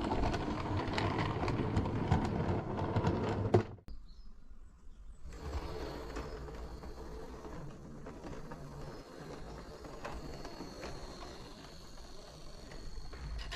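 Model railway locomotive running along the track, a dense rattle of small clicks. It cuts off abruptly just under four seconds in. About a second and a half later a quieter, steady running sound with a faint high whine takes over.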